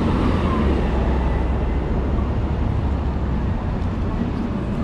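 Downtown street traffic: a steady mix of vehicle engines and road noise with a heavy low engine rumble that eases after about three seconds.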